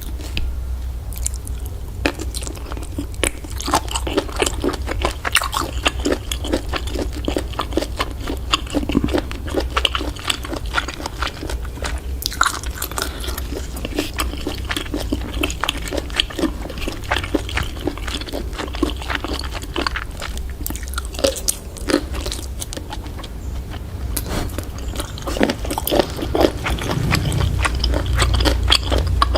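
Close-miked chewing and biting of octopus: a dense, irregular run of small wet crunches and clicks, over a steady low hum.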